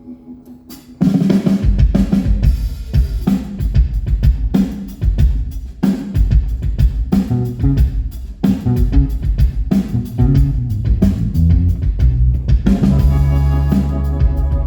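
Live rock band playing loud with a full drum kit (kick and snare) and heavy bass. The band comes crashing in together about a second in, out of a quiet held chord.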